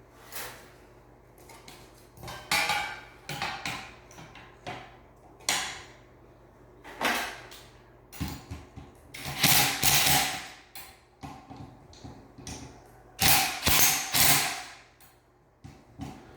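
Irregular knocks and clinks of metal fan parts, screws and a screwdriver being handled and set down, in scattered bursts, some with a short ring.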